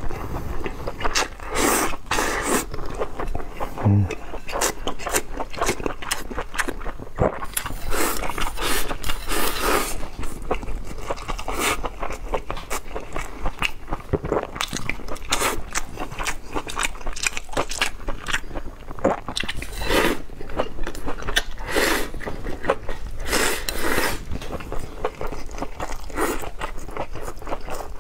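A person biting and chewing mouthfuls of cumin lamb rice, a dense run of short crunching clicks.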